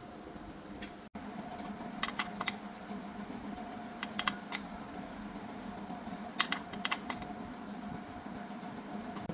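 Sharp clicks and taps in small clusters over a steady low hum.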